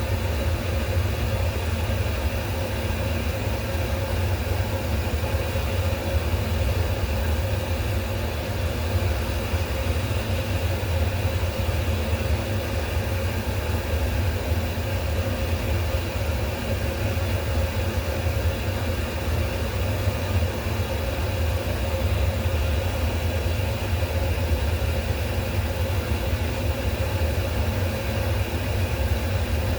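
Steady low mechanical drone from a running machine, even throughout, with a faint constant tone above the low rumble.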